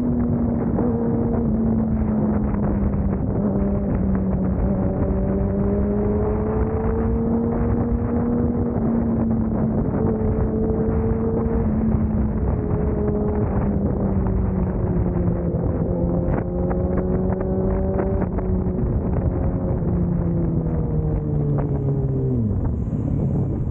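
Motorcycle engine running under steady throttle while riding. Its note wavers slightly, then drops sharply about 22 seconds in as the bike slows.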